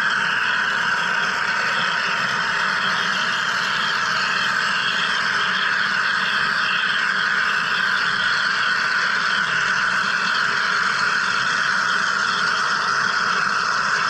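Wire electrical discharge (wire EDM) machine cutting, a steady hiss with a fast, fine crackle that never lets up.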